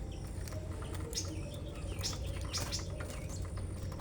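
A cage of small songbirds (canaries and finch-like birds) chirping, many short, high chirps scattered through.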